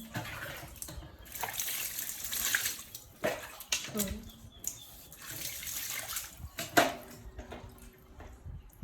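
Water splashing and pouring in two spells of a couple of seconds each, with short voice-like sounds in between and near the end.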